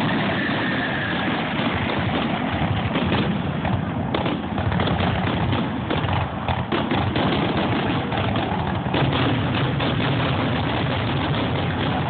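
Fireworks crackling and popping in a dense, rapid run of small bangs over a steady rumble.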